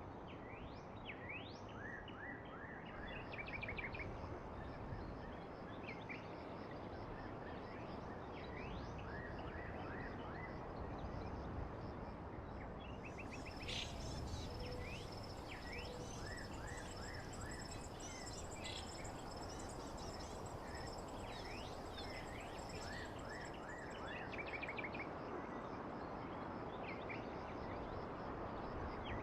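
Songbirds chirping and trilling in short quick rising and falling notes over a steady hiss. About halfway through, a high steady buzzing note with rapid pulses joins for around ten seconds, then fades.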